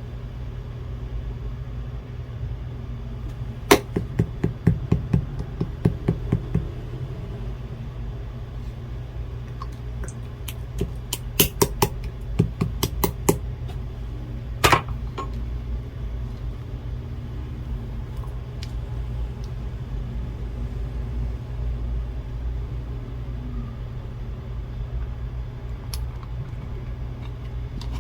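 Blue slime being pressed and poked, giving two runs of quick crisp popping clicks, a few seconds in and again near the middle, with one more pop just after, over a steady low hum.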